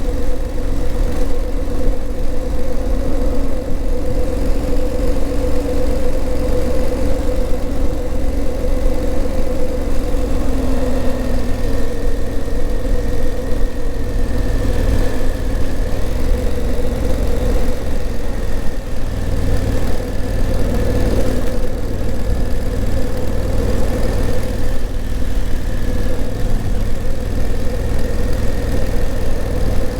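Honda CRF1000L Africa Twin's parallel-twin engine running steadily at low, even revs, without revving. A faint high steady whine joins from about a third of the way in.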